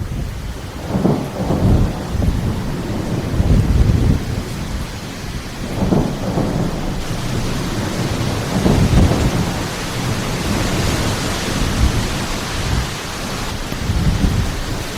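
Thunder rumbling over and over through steady rain, the rain's hiss growing heavier about seven seconds in.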